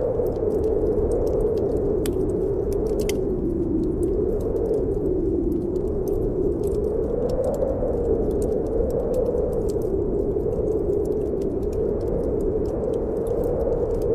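Snowstorm wind howling steadily, its pitch slowly rising and falling, over a wood fire crackling with scattered sharp pops.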